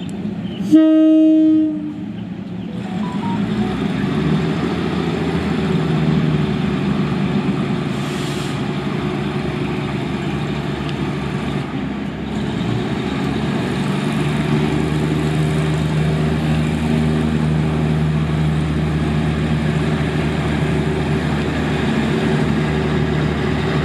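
Diesel train horn sounding one short blast about a second in, followed by the train's diesel engine running steadily, swelling over the next couple of seconds and taking on a deeper hum about halfway through.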